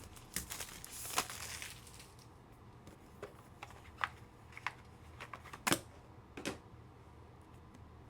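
Trading cards and their packaging being handled on a table: rustling for the first two seconds or so, then scattered light clicks and taps, the loudest a little before six seconds in.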